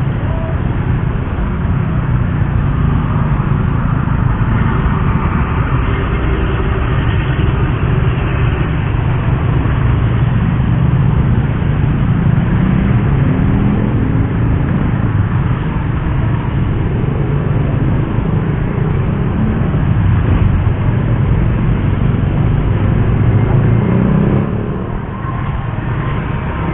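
Suzuki GSX-R150's single-cylinder engine running under way, its pitch rising with the revs a few times, then easing off about a second or two before the end.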